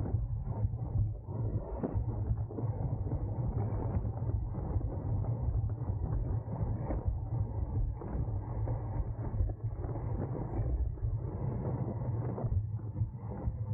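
Wind buffeting the microphone of a camera on a racing bicycle at speed, a steady low rumble with tyre and road noise and scattered small clicks from the bike.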